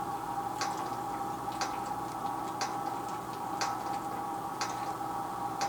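Clock ticking steadily, one tick a second, over a steady hum.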